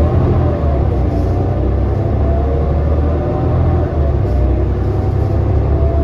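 Interior of a 2018 New Flyer Xcelsior XD40 diesel city bus under way: a steady low engine rumble with wavering whine tones that drift up and down in pitch.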